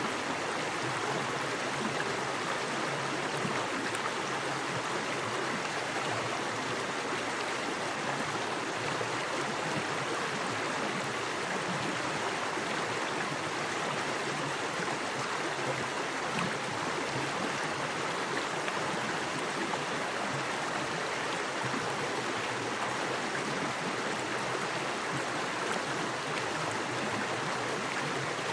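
Small woodland creek with fast water running over rocks: a steady, even rushing.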